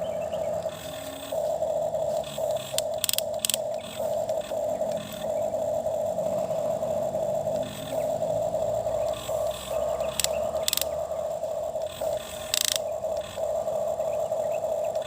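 Toy excavator's small electric motor and gears whining steadily in repeated runs, starting and stopping as the arm and bucket are worked, with several sharp clicks and knocks.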